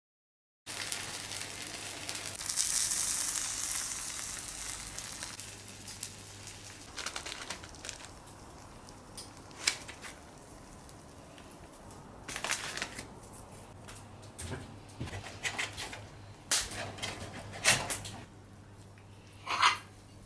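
Camp cooking: a burst of sizzling swells a couple of seconds in and fades. It is followed by scattered sharp clicks and knocks of utensils on cookware.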